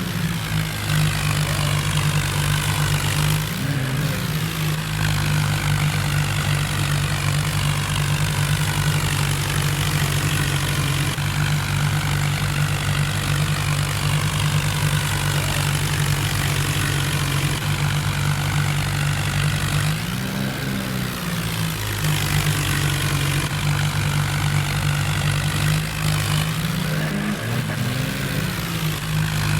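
John Deere tractor's diesel engine running steadily, with the engine speed briefly rising and falling about 4 seconds in, about 20 seconds in and near the end.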